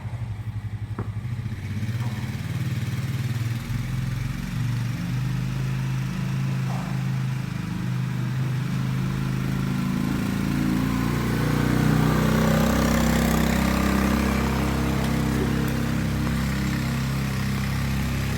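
An engine running, with its pitch climbing about ten seconds in and holding higher after that.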